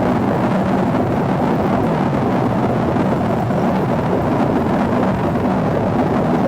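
Steady rushing roar inside the cabin of an Embraer ERJ-145 regional jet on descent: airflow over the fuselage mixed with the hum of its two rear-mounted Rolls-Royce AE3007 turbofans.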